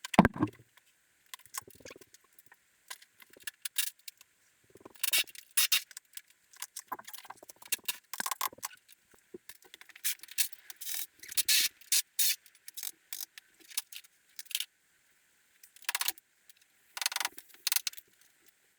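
Irregular metallic clanks, clicks and rattles of hand tools and loose steel parts as a golf cart's front end is taken apart, with a heavy thump right at the start.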